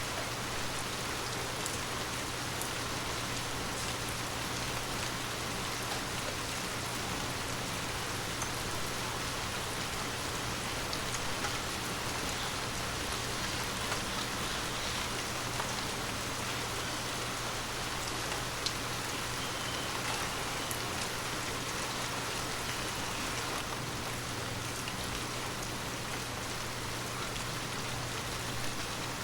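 Heavy rain falling steadily, a dense even hiss with individual drops ticking sharply here and there, over a steady low hum.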